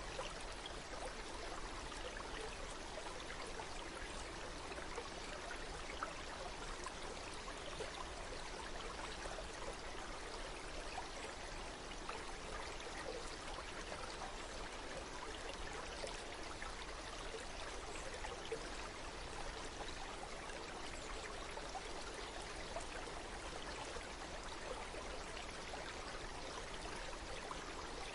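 Flowing water: a stream running steadily, with an even rush and fine splashing detail.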